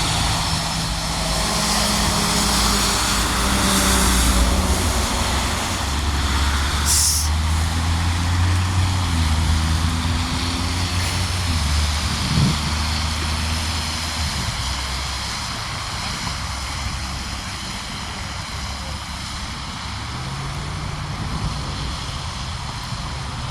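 Road traffic: vehicle engines running and passing, with their low hum shifting in pitch every few seconds over steady tyre and road noise. A brief hiss comes about seven seconds in.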